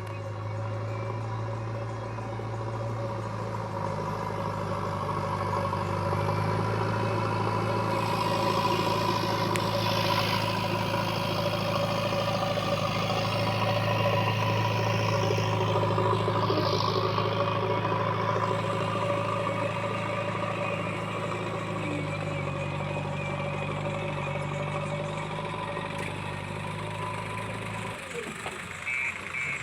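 Heavy diesel engine of earth-moving machinery running steadily. It grows louder through the middle, then its low hum drops away about two seconds before the end.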